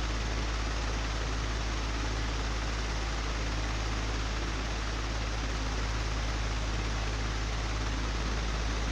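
Old, broken electric fan running steadily: a deep, constant hum under an even rush of air.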